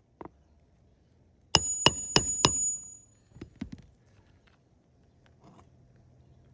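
Hammer driving a roofing nail through an asphalt shingle: four sharp blows about three a second, with a high metallic ring, then two lighter taps.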